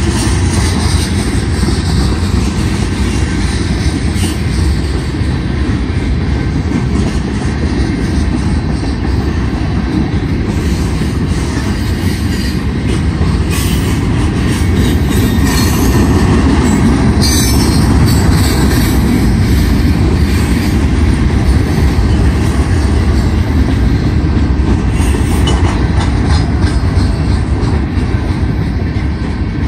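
Freight train of tank cars, covered hoppers and boxcars rolling past a grade crossing: a steady, loud rumble of steel wheels on rail, with brief high wheel squeals midway through.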